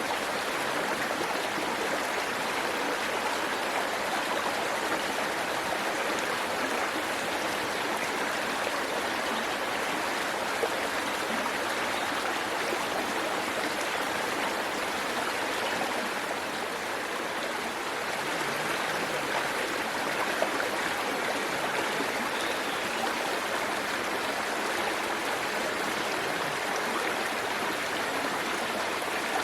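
Waterfall water falling and rushing over rocks in a steady, even splashing rush, with small trickles and drips in it.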